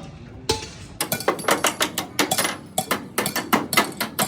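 Hammer tapping on metal: two single strikes, then from about a second in a fast run of sharp metallic taps, several a second.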